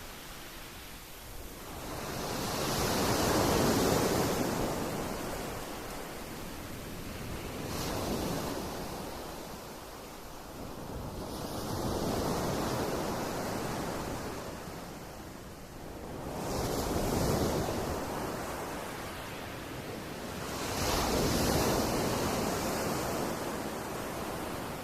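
Waves washing onto a pebble shore, each one surging in with a hissing rush and ebbing away, about every four to five seconds.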